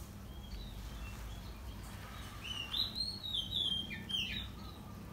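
A bird singing a short phrase of clear whistled notes that glide up and then step down in pitch, starting about halfway through, over a steady low background rumble.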